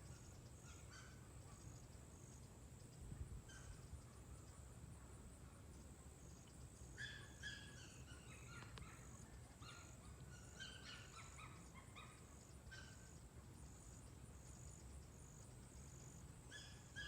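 Faint, scattered bird chirps and short calls, several in quick clusters, over a low steady hum.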